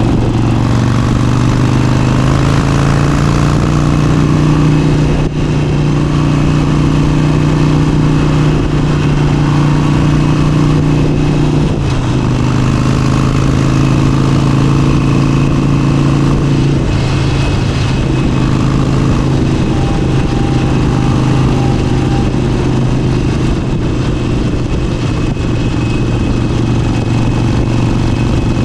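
Motorcycle engine running steadily while riding, its pitch stepping to new levels a few times as the engine speed changes.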